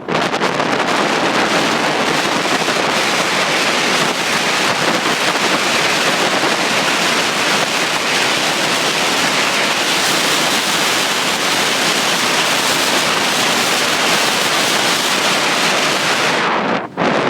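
Wind rushing over a handheld camera's microphone while riding a bicycle downhill. It is a loud, steady noise, with a brief dip shortly before the end.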